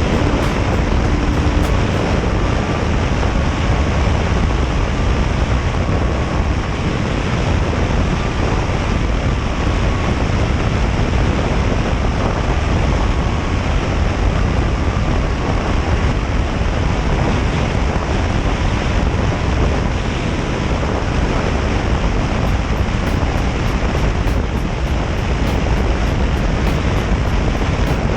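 Steady rush of wind over the microphone of a moving motorcycle, with engine and road noise underneath.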